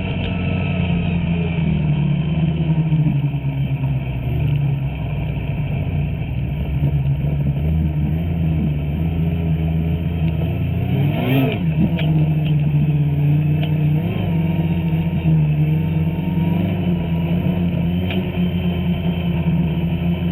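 Two-stroke snowmobile engine running steadily, with a brief rise and fall in pitch about eleven seconds in.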